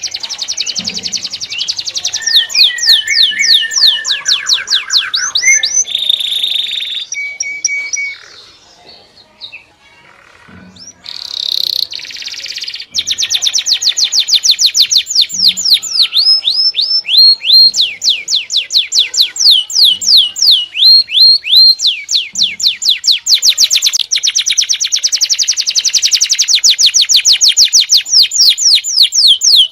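Small songbirds singing in fast trills of high, falling notes, about six or seven a second, recorded as masteran song for training cage birds. It drops quieter for a few seconds about a third of the way in, then runs on as an almost unbroken trill.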